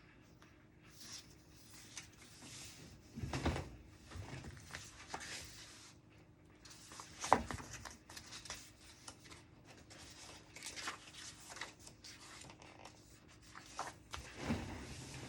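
Desk study sounds: pen scratching and paper rustling, with a few sharp knocks of objects set down on the desk, the loudest about halfway through.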